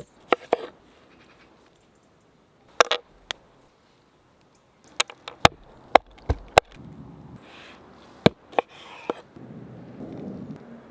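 A knife cutting into a pear: about a dozen sharp, irregular knocks, some in quick pairs, with softer scraping between them.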